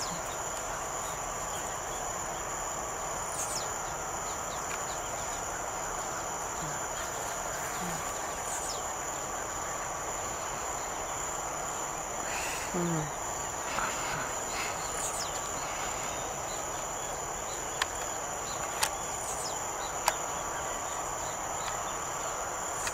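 Steady high-pitched insect drone, with a blue-black grassquit (tiziu) giving its short, high, falling song phrase four times, several seconds apart. Three sharp clicks come near the end.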